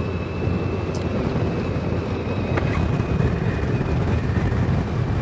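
Steady low rumble of vehicle traffic, with a thin steady high tone and a couple of faint ticks.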